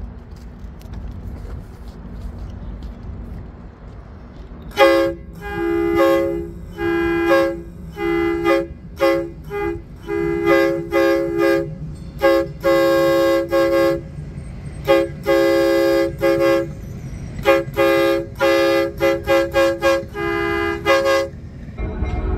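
Multi-chime locomotive horn sounded in a long run of short and held blasts, starting about five seconds in and stopping about a second before the end, over a low steady engine rumble.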